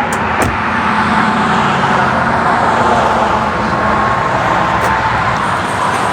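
Steady road traffic noise, an even rush of vehicles with a faint steady whine in it, and a couple of brief clicks near the start.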